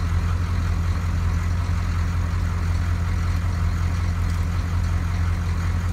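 Diesel engine of a 1994 GMC Blue Bird school bus idling steadily, heard from inside the driver's cab as an even low hum.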